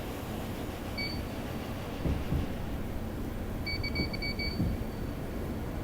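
Inside an R160B subway car: a steady low rumble with a couple of low thuds, and short high electronic beeps all at one pitch, one about a second in and a quick run of about six near four seconds.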